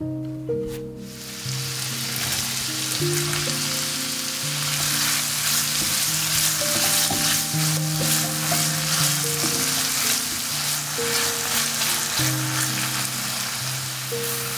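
Diced red bell pepper, onion and garlic sizzling in hot oil in a pan while a wooden spatula stirs them; the sizzle sets in about a second in and holds steady. Soft background music with held notes runs underneath.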